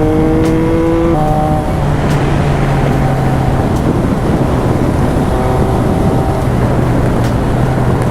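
Triumph Speed Triple RS inline-three with an SC Project titanium exhaust, pulling with rising revs, then a sharp drop in pitch about a second in as it shifts up. It then runs at a steady speed under heavy wind rush.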